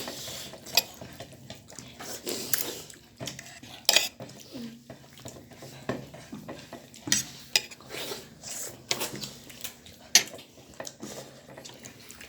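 Cutlery clinking and scraping against plates during a meal, in many irregular sharp clicks.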